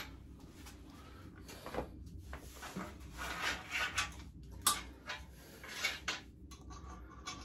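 Scattered light clicks, knocks and scrapes of small metal parts being handled and fitted.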